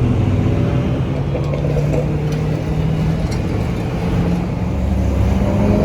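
Car engine running steadily, its pitch beginning to rise near the end as it accelerates.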